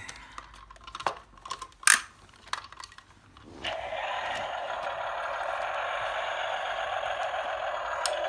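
Plastic Tonka Power Movers toy excavator being worked to dig: a few scattered clicks and knocks, then from a little under halfway a steady rushing noise that carries on.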